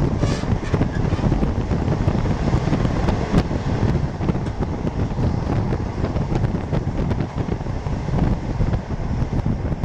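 Passenger train in motion: a steady low rumble of the carriage running on the rails, with wind buffeting the microphone.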